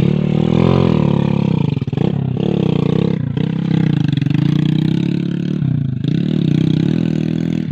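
Engine running loud with its revs rising and falling, dipping briefly several times as the throttle is eased and opened again.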